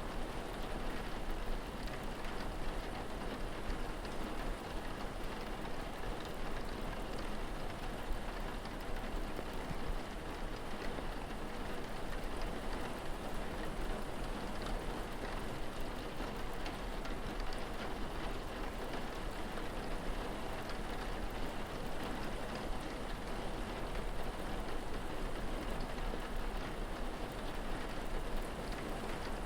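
Steady rain falling, a continuous even hiss with scattered drops pattering on a surface.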